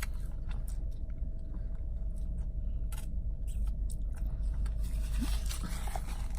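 Close-up eating sounds: chewing, with scattered wet mouth clicks at irregular intervals, over a steady low rumble.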